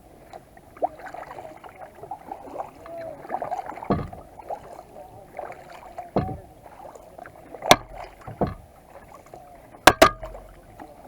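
Kayak paddling on a lake: water splashing and gurgling around the paddle blades and hull. Sharp knocks are heard now and then, about six in all, the loudest a quick pair near the end, typical of a paddle striking the kayak's plastic hull.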